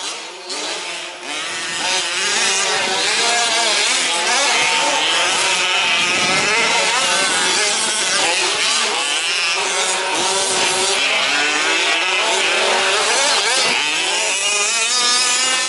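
Several 1/5-scale petrol RC trucks' small two-stroke engines revving and racing together, many overlapping wavering whines rising and falling in pitch. The sound gets louder about a second and a half in.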